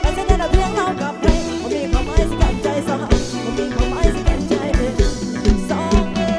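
Live band music for a Thai dance song, with a fast, steady drum beat under a bending melodic lead line.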